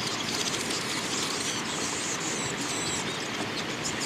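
Several small birds chirping and chattering in quick, high, overlapping calls, over a steady rushing background noise.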